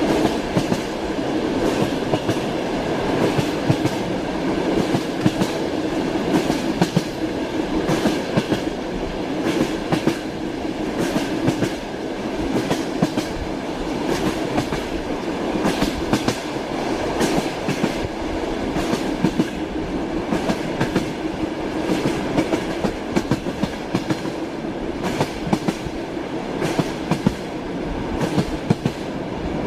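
Train wheels clattering over rail joints, heard from a moving train: a steady running rumble with a continual clickety-clack of knocks.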